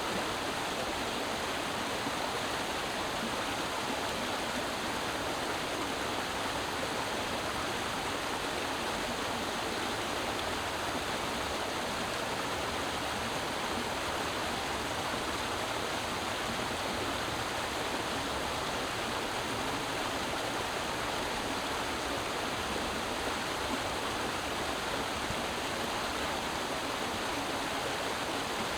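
Creek water flowing and splashing over rocks, a steady even rush.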